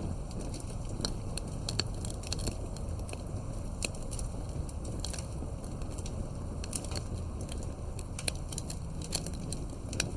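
Campfire crackling: a steady low rumble with frequent irregular sharp pops and snaps.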